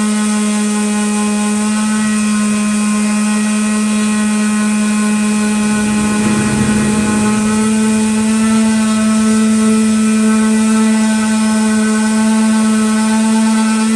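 Electric sander running steadily on a wood round, a strong even motor whine with overtones. About halfway through a brief rougher, lower noise rises under it and dies away again.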